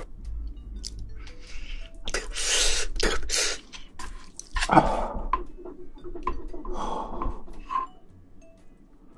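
Close-up eating sounds of shrimp being chewed and handled: irregular crunches and wet clicks, loudest about two and five seconds in.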